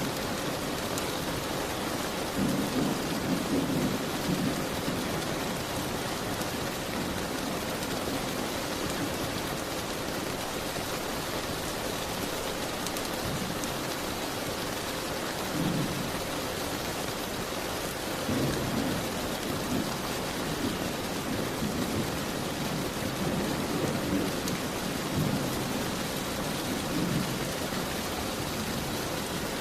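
Steady rain falling on a window, an even hiss, with deeper low rumbles swelling up several times.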